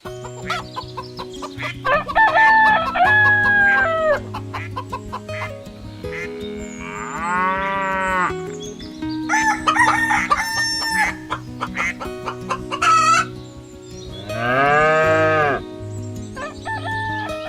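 A rooster crowing several times, the calls held and dropping at the end, with other long rising-and-falling farm-animal calls between them. Steady background music plays underneath.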